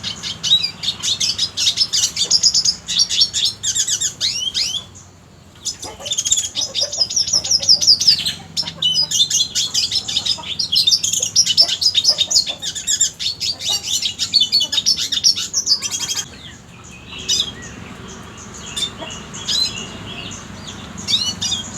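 Red siskin singing: long runs of rapid twittering and trilled phrases, with a brief break about five seconds in, thinning to scattered short calls after about sixteen seconds.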